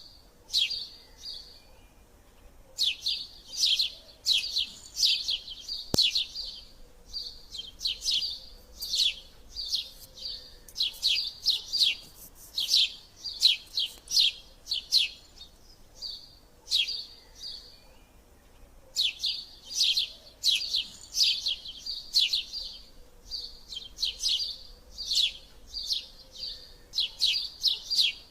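Eurasian tree sparrows calling in quick runs of short, sharp chirps with brief gaps between the runs: the excited chatter of sparrows fighting.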